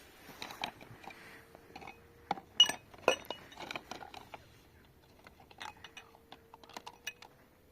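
Dishes clinking as they are handled, a series of sharp knocks and ringing clinks, loudest about two and a half to three seconds in, over a faint steady hum.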